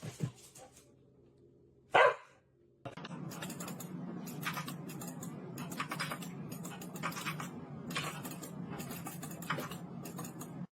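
A dog barks once, short and loud, about two seconds in. Then comes a steady low hum with a run of irregular sharp clicks and taps.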